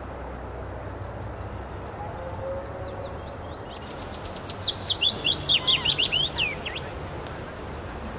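A songbird singing a quick run of high, sliding chirps for about two and a half seconds, starting about four seconds in, over steady low background noise.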